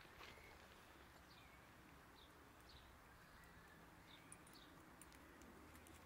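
Near silence: faint garden ambience with a few short, high bird chirps that fall in pitch, spaced about a second apart.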